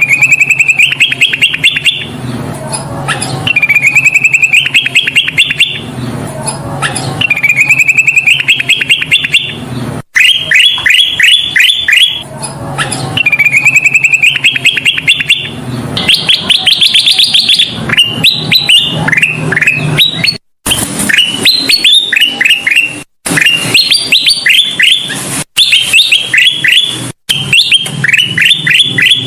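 Kutilang emas, a bulbul, singing loudly and continuously: trills that rise in pitch, each about two seconds long, come about every three and a half seconds, and later alternate with quick runs of sharply rising whistled notes. The sound cuts out for an instant several times, where the recording has been edited.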